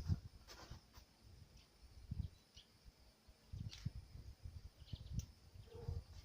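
A few faint, short chirps of small songbirds, scattered through, over an irregular low rumble.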